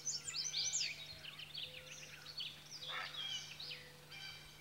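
Birdsong: several small birds chirping and twittering in quick, high calls, over a faint steady low hum.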